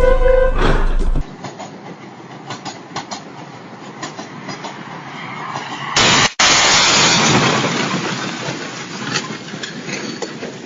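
Vehicle noise from a dashcam, with steady beeping tones in the first second, then quieter running noise with scattered clicks. About six seconds in comes a sudden, very loud burst of noise that dies away over a couple of seconds.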